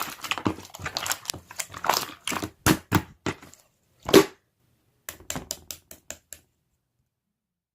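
A dog crunching and chewing a raw vegetable: irregular crisp bites, the loudest about four seconds in, stopping at about six and a half seconds.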